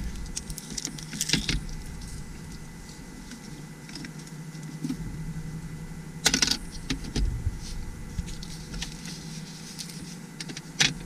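Hands handling the small parts of a magnetic phone mount: scattered light clicks and rustles, with sharper clicks about six seconds in and near the end, over a steady low hum.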